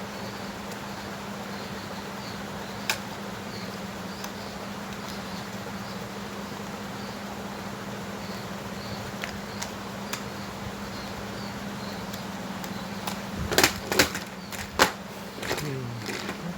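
A steady low hum with faint soft ticks about twice a second. Near the end comes a run of sharp clicks and knocks of hard objects.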